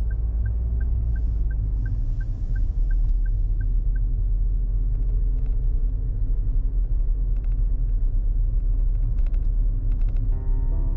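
Steady low road rumble of a car being driven, heard from inside the cabin, with scattered light clicks and rattles in the second half.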